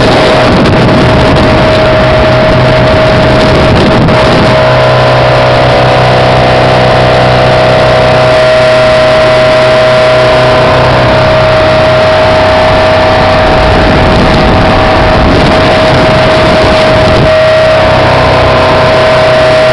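Speedboat engine running steadily at speed, with a constant engine whine and a loud rushing noise throughout.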